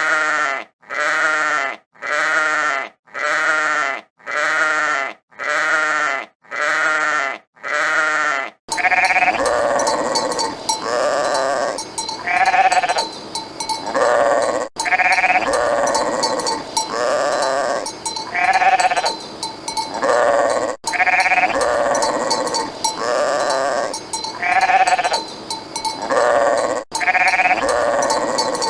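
Bleating livestock. First, one short bleat repeats evenly about once a second. About a third of the way in this gives way to several animals bleating over one another against a steady background.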